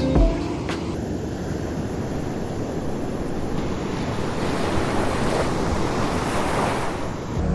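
Ocean surf: a steady rush of breaking waves that swells a little after the middle.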